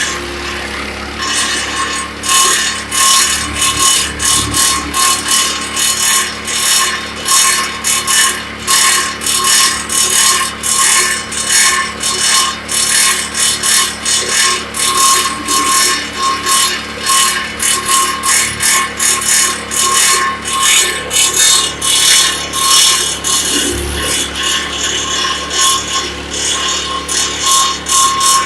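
Petrol-engined garden branch shredder running under load, chipping branches: a steady whine over the engine, with a rapid rhythm of sharp clacks, about two a second, as the knives bite into the wood. The clacking sets in about a second in.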